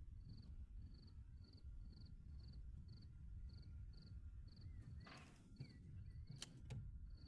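Faint insect chirping in an even rhythm of about two chirps a second, over a low rumble. A short scrape comes about five seconds in and two sharp clicks near the end.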